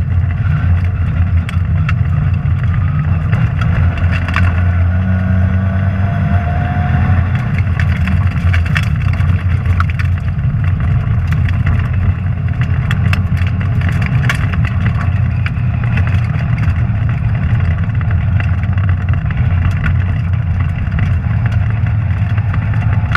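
Rally car engine running hard, heard from inside the cabin, with many sharp clicks and knocks over the steady engine note.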